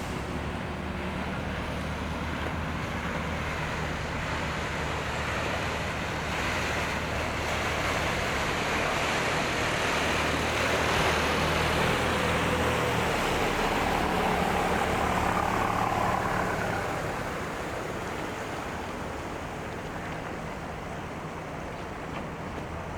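Street traffic: a vehicle engine running steadily, with traffic noise swelling to its loudest about halfway through and then fading away.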